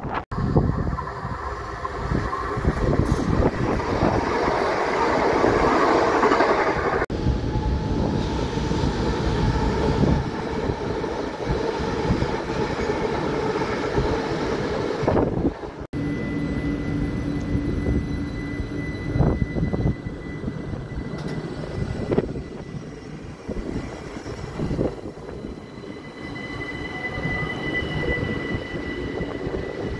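Southern electric multiple-unit trains running through the station: wheel-on-rail rumble, with a steady high whine of electric traction in the later part. The sound changes abruptly twice where separate takes are joined.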